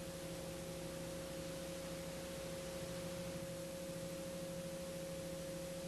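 Faint steady hum with one clear held tone over it, unchanging throughout.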